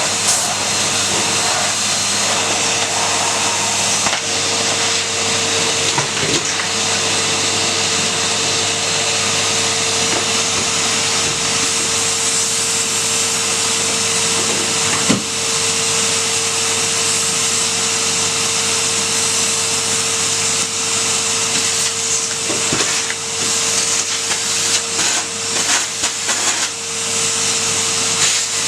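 Vacuum cleaner running steadily: a constant rush of air with a steady motor whine, and a few sharp knocks. The sound wavers more near the end.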